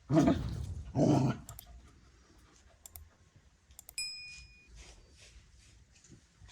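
A dog barking twice, about a second apart, then a short metallic ding of a utensil about four seconds in.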